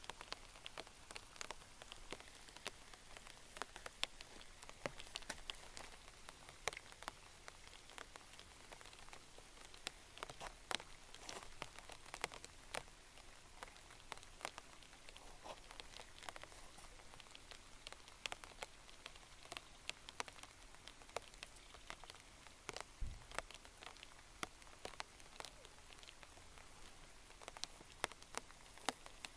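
Steady light rain falling, with close drops ticking irregularly on nearby surfaces. A brief low thump about two-thirds of the way through.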